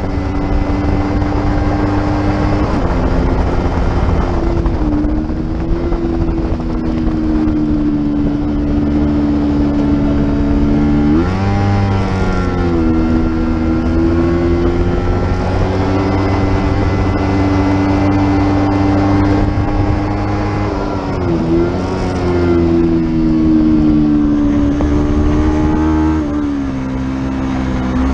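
Racing motorcycle engine run hard at high revs on track, a steady loud note. Its pitch drops and climbs again sharply around the middle, and dips briefly twice more later on.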